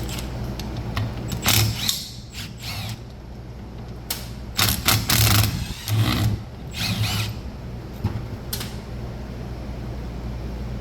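Impact wrench run in several short, loud bursts, spinning off the reverse-threaded crank nut that holds the primary gear on a two-stroke dirt bike engine.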